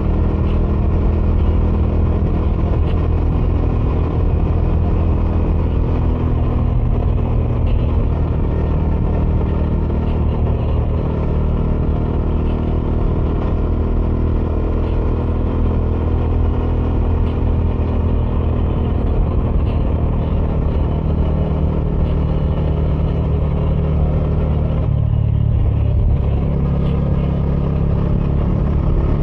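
Bajaj Dominar 400's single-cylinder engine running through its stock dual exhaust while riding at a steady pace. About 25 seconds in the engine note changes, with less of the higher sound.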